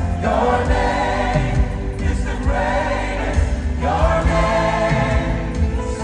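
Gospel worship song with a choir singing sustained phrases over a steady band and bass.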